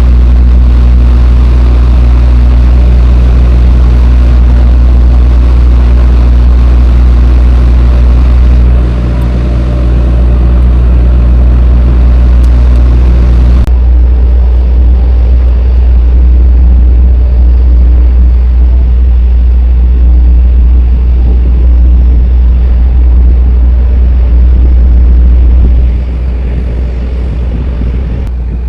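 Semi-truck on the move: a steady, loud low rumble of diesel engine and road noise with a constant engine hum. The sound changes abruptly about 14 seconds in, the hum lines fading and the top end dropping away.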